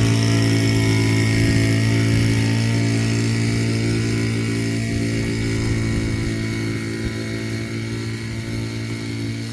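Gasoline engine running at a steady, constant speed with a strong low hum, slowly growing fainter toward the end; the listener takes it for a gas generator.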